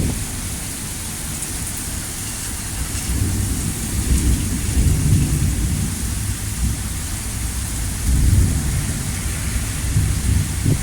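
Severe thunderstorm: very heavy rain pouring steadily, with a low rumble that swells about three seconds in and again about eight seconds in.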